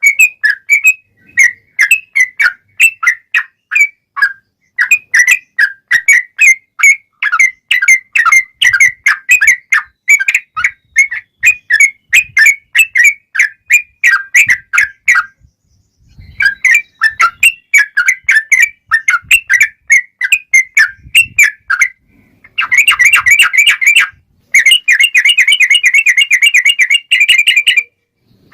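Yellow-vented bulbul (trucukan) singing loudly: long runs of rapid, short, repeated chattering notes in phrases broken by short pauses, turning into dense, fast trills over the last few seconds.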